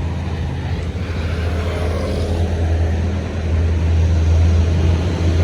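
A heavy road vehicle's engine rumbling low and steady, growing louder as it approaches.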